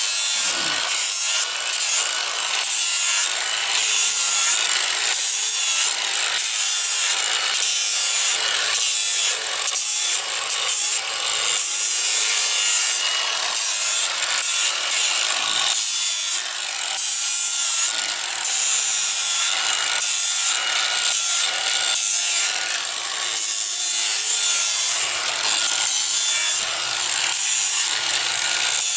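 Power grinder with an abrasive disc grinding down a horse's hoof wall: a continuous rough grinding noise with a faint steady motor whine, rising and falling slightly with each pass.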